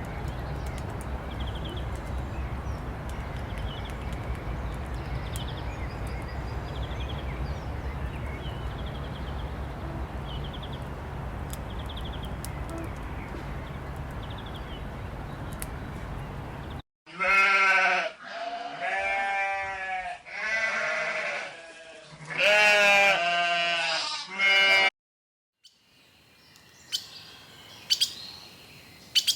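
Sheep bleating, about six loud calls in a row, after a stretch of steady low rumbling background with faint repeated high chirps. The bleats cut off suddenly and give way to faint clicks and chirps near the end.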